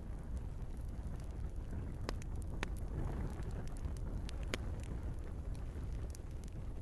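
Wood fire burning in a fireplace: a steady low rumble of flames with scattered sharp crackles and pops from the burning logs, a few louder pops about two and four and a half seconds in.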